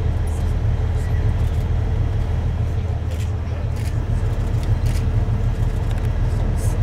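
Tour bus engine idling: a steady low rumble, with a few faint brief ticks over it.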